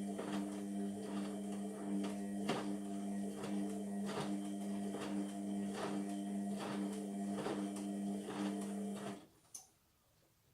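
Indesit MTWC71252WUK washing machine turning its drum during the wash, its motor giving a steady hum with knocks of laundry tumbling about twice a second. The motor stops suddenly about nine seconds in and a single click follows.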